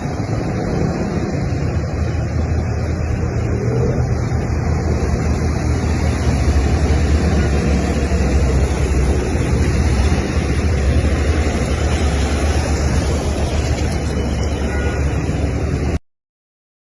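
A vehicle engine hums steadily under a continuous rush of noise from floodwater and wind on the microphone. The sound cuts off abruptly near the end.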